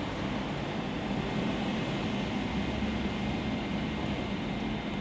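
Steady low rumble and hiss of railway station platform ambience, with a faint steady high tone and no distinct events.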